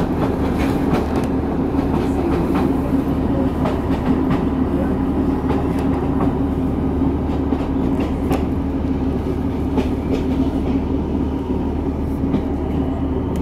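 Interior of a diesel passenger train running along the track: a steady engine drone and rumble of wheels on rail, with scattered sharp clicks from the wheels over the track.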